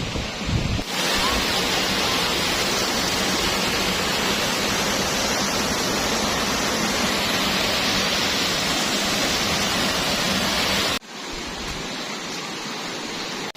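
Waterfall rushing: a steady, even noise of falling water, stepping up suddenly about a second in and dropping suddenly near the end.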